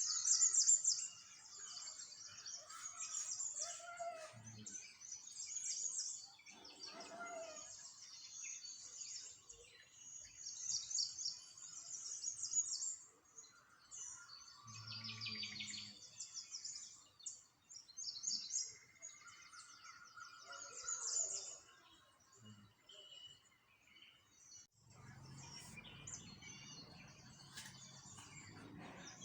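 Small songbirds chirping and twittering, many quick high calls in runs and overlapping phrases, with short lulls between bursts.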